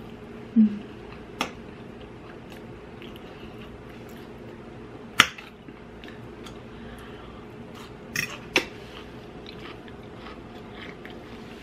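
A person chewing a mouthful of grilled steak and peppers, with a few short sharp clicks of a metal fork against a plate. The loudest click comes about five seconds in, and two come close together about eight seconds in.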